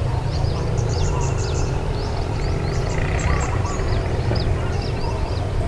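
Small birds chirping repeatedly, many short downward-sweeping calls each second, with a short buzzy trill now and then, over a steady low rumble.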